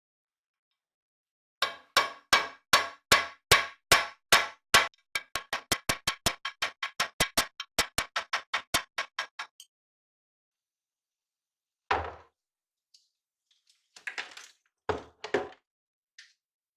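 Repeated hammer blows at a steady beat, about two and a half a second, speeding up to about four a second and growing softer, stopping after about eight seconds. A single heavier knock follows, then a few scattered knocks and clatter near the end.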